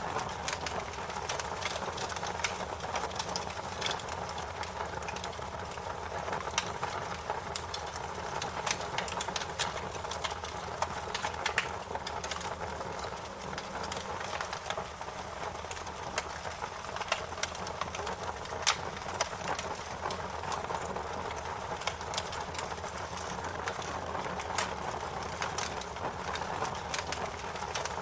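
Fire crackling: a steady hiss with frequent sharp pops and snaps scattered irregularly, a few of them louder than the rest.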